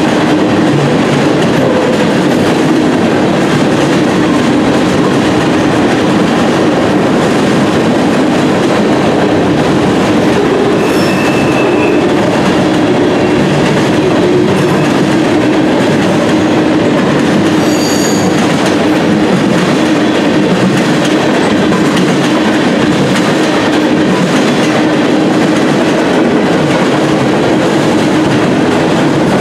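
Freight cars of a manifest train rolling past at speed: a steady, loud rumble of steel wheels on rail with clickety-clack. A couple of brief high wheel squeals come partway through.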